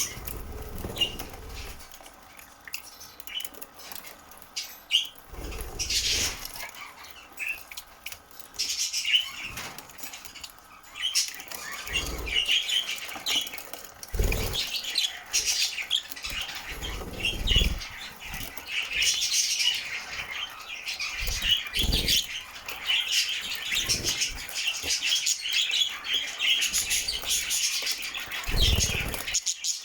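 Budgie bathing in shower spray, fluttering its wings in irregular bouts, with short high chirps.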